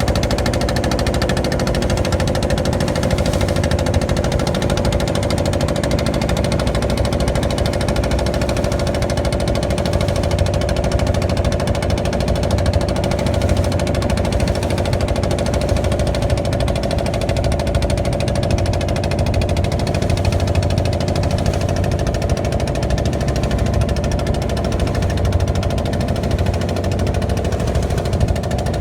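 An engine running steadily at constant speed, a continuous drone with a steady pitched hum over a low rumble.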